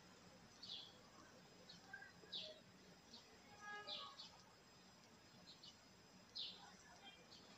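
Faint bird chirps: about half a dozen short, high calls a second or so apart, over a quiet background hiss.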